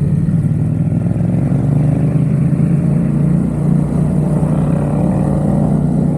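Yamaha XSR700's parallel-twin engine running through its MiVV exhaust while underway, a steady note that begins rising in pitch about two-thirds of the way in as the bike accelerates.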